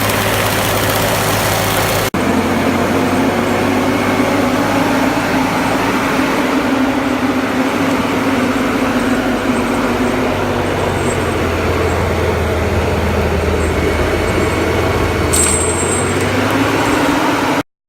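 Heavy engine of a Prinoth forestry machine running steadily under a low, even hum. A brief break about two seconds in, after which it runs on at a slightly different pitch, then cuts off suddenly near the end.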